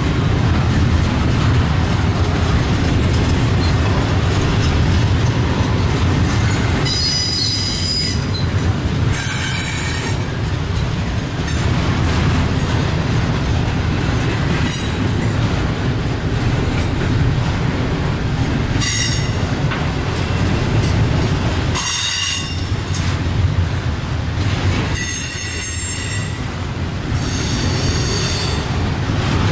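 Union Pacific double-stack intermodal container train rolling past, a steady rumble of steel wheels on rail. From about seven seconds in, high-pitched metallic squeals come and go several times over the rumble.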